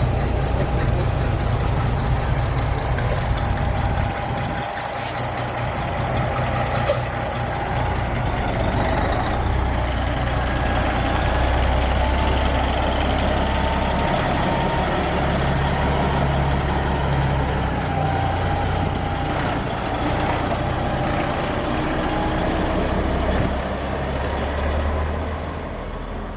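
A large truck's diesel engine running steadily, with a low drone and a whine that wanders slightly in pitch.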